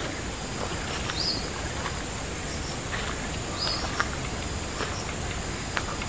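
A bird's short, high whistled call that rises and then levels off, heard twice about two and a half seconds apart over a steady background hiss, with a few faint footsteps on leaf-littered ground.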